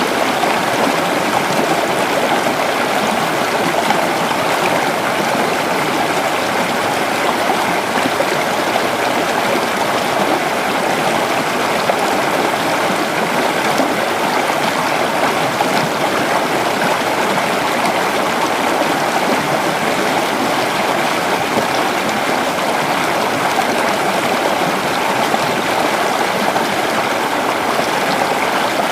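Creek water flowing and babbling over rocks, a steady rush of running water.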